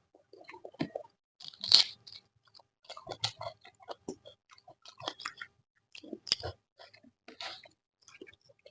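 Close-miked chewing and wet mouth smacks and clicks of someone eating a home-cooked lunch of vegetable curry and mashed eggplant, in irregular short bursts, the loudest a crunchy one a little under two seconds in.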